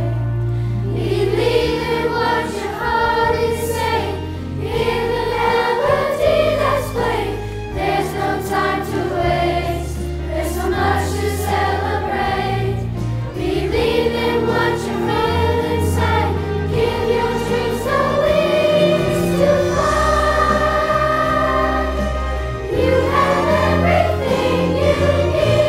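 A chorus singing a Christmas piece with held notes and phrases changing every second or two, over sustained low accompaniment notes.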